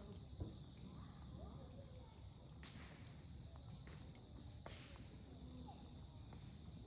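Insects chirping in steady trains of rapid pulses, with two sharp pops of burning firewood crackling in a campfire, about a third and two thirds of the way through. Faint distant voices underneath.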